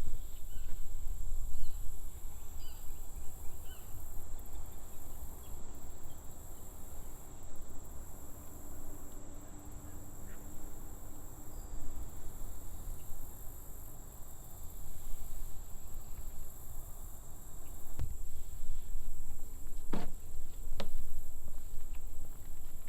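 Scattered bird calls over a steady low rumble, with a few sharp clicks near the end.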